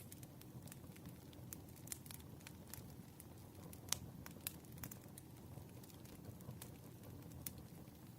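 Wood fire crackling quietly: a low steady rumble of burning logs with scattered sharp pops and snaps, the loudest about four seconds in.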